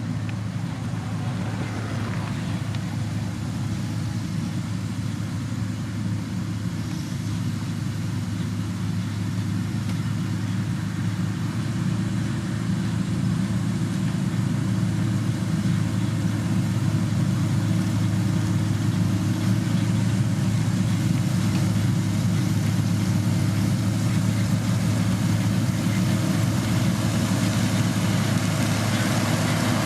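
Heavy road-construction machine's engine running steadily with a low hum, growing somewhat louder about halfway through.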